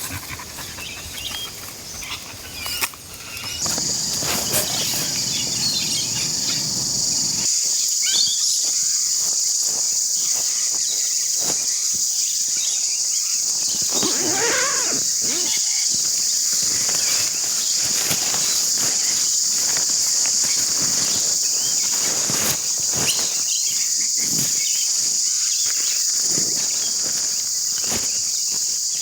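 A steady, loud, high-pitched insect chorus starting a few seconds in, with scattered rustles and clicks of handling gear beneath it.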